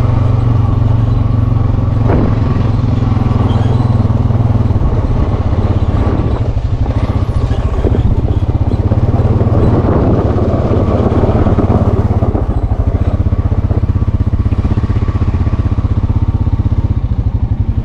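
Four-wheeler (ATV) engine running loudly at a steady low speed, with a few sharp knocks and a rougher stretch partway through.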